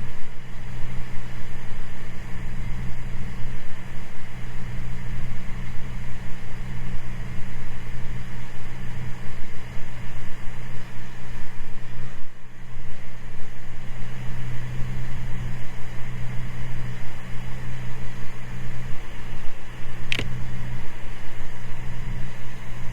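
Cessna 206 Stationair's piston engine and propeller droning steadily in cruise descent, heard inside the cabin. A single short click sounds near the end.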